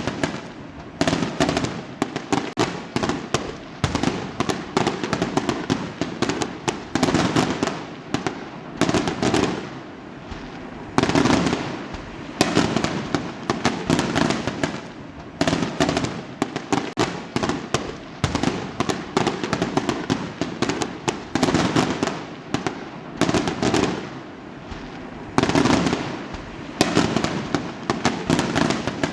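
Fireworks going off in quick, irregular succession: sharp bangs and rapid crackling bursts, coming in clusters every second or two without a break.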